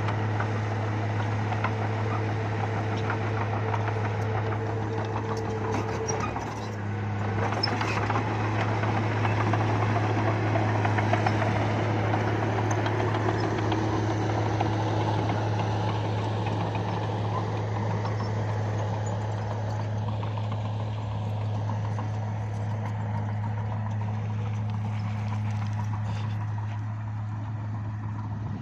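Bulldozer's diesel engine running steadily with a constant low hum. It dips briefly about six seconds in, then runs louder for several seconds before settling back.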